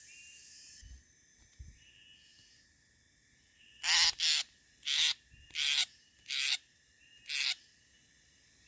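A bird giving six short, harsh calls in quick succession, starting about four seconds in.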